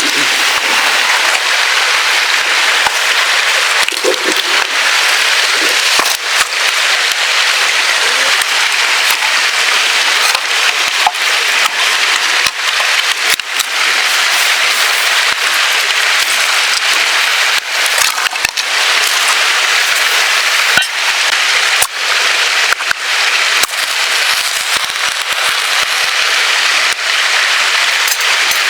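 Wood campfire burning, crackling with frequent irregular sharp pops over a steady hiss.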